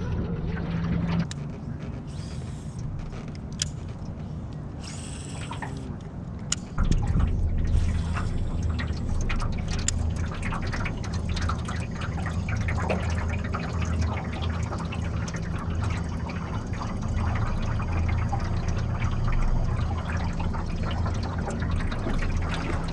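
Water splashing and dripping around a small jon boat, with many small sharp splashes, over the steady low hum of the boat's motor, which grows louder about seven seconds in.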